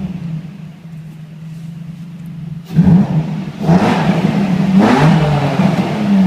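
Nissan 350Z's 3.5-litre V6 through an HKS exhaust with no catalytic converters, loud. It idles, then is revved sharply about halfway in and blipped twice more.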